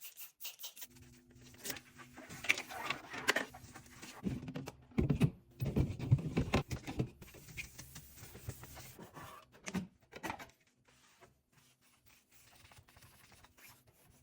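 Food containers and items being handled and set down in a fridge: irregular knocks, clicks and rustling, busiest in the middle, over a low steady hum that stops about ten seconds in, after which only faint handling sounds remain.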